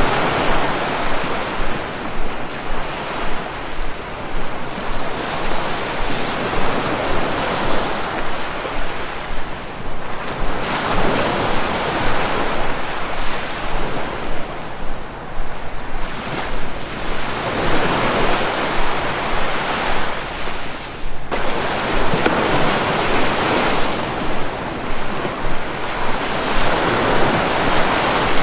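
Sea waves breaking and washing onto the shore, the rush of surf swelling and falling back every few seconds.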